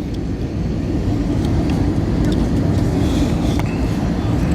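Steady cabin noise of an Airbus A320 on final approach: a low roar of engines and airflow heard from inside the passenger cabin, growing slightly louder about a second in.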